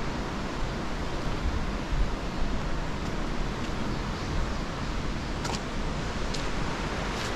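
Steady rushing of a river's water just above a waterfall, an even roar without a break, with a few faint clicks in the second half.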